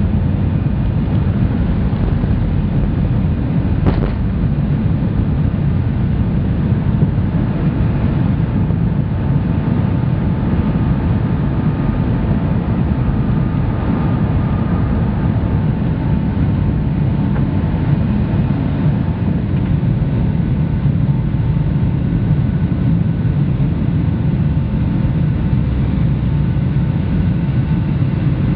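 Boeing 757-200 cabin during takeoff: a loud, steady low rumble of the engines at high power and the airflow, with faint steady whining tones above it and a single short click about four seconds in.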